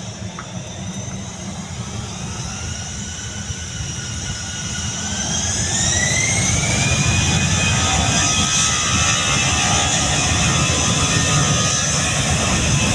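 Airbus A320-214's CFM56 turbofan engines spooling up: a whine rises in pitch between about four and seven seconds in as the engine noise grows louder, then holds steady at high thrust.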